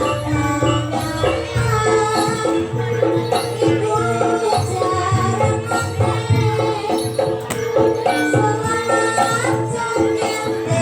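Loud live gamelan music accompanying a jaranan trance dance. Drumming and metal percussion keep a steady beat, and a high melody wavers above them.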